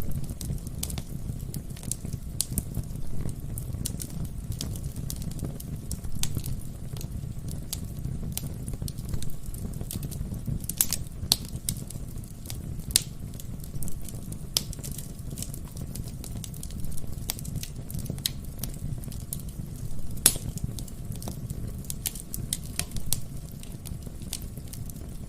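Wood fire crackling in a fireplace: a steady low rumble from the flames under frequent sharp pops and snaps from the burning logs, a few of them louder.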